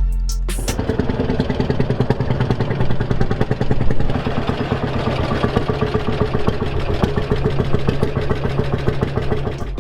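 Tractor engine running, with a rapid, even firing pulse.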